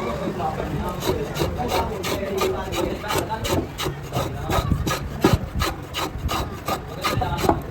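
A hand tool scraping over wood in quick, evenly repeated strokes, about three a second, starting about a second in. It is the sound of a cricket bat being shaped by hand.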